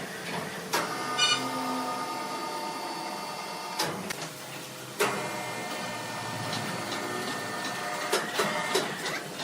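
Sawmill saw machinery running with a steady, many-toned whine, broken by sharp knocks about a second in, around four and five seconds, and several close together near the end.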